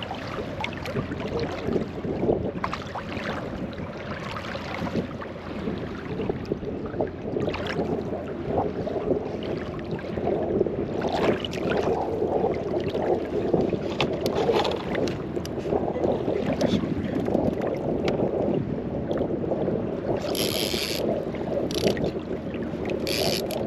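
Waves sloshing and slapping against a kayak hull in choppy water, with steady wind buffeting the microphone. Near the end come a few short, high-pitched rasping bursts.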